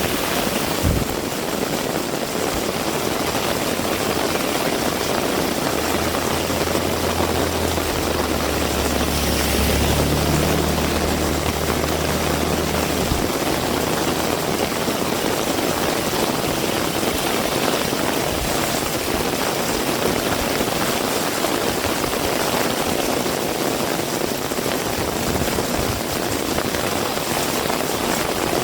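Heavy rain falling steadily. A vehicle engine hums low underneath from about five seconds in and stops suddenly around thirteen seconds.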